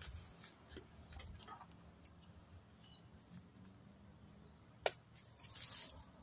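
Small birds chirping a few times, in short, falling high notes. A sharp click comes about five seconds in, and a brief hiss near the end.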